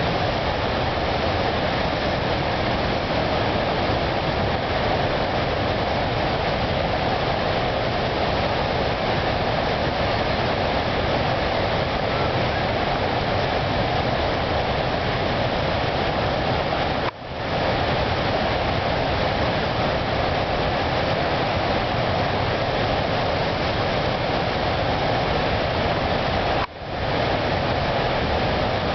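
Steady rushing of falling water, broken twice by brief dropouts.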